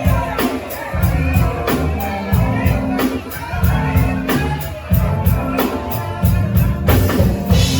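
Band music with a steady drum beat over a bass line.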